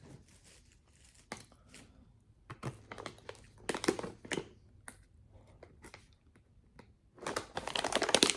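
Plastic packaging being handled: scattered crinkles and crackles, thickening into a denser rustle near the end.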